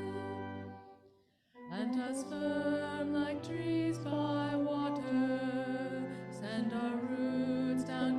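Hymn music: a held chord dies away about a second in, and after a brief pause the music starts again with a wavering melody over steady low notes.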